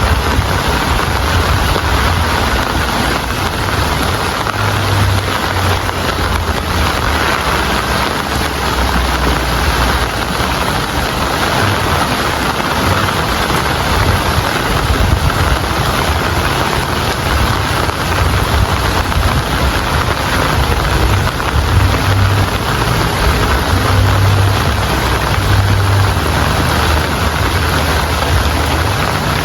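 Steady heavy rainfall, an even hiss of rain on surfaces, with an uneven low rumble underneath.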